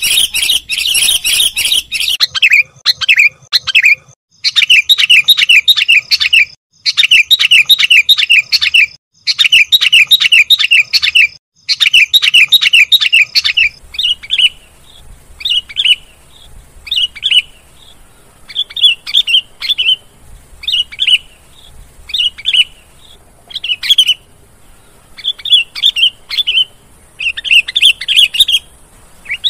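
Sooty-headed bulbul (kutilang) song played as a lure recording: rapid runs of loud chirps about two seconds long with short gaps between, giving way about halfway to short single calls roughly once a second.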